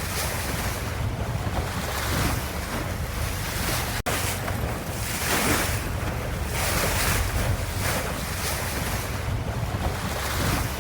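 Ocean surf: a continuous wash of waves that swells and eases every second or two over a low rumble, with a brief cutout about four seconds in.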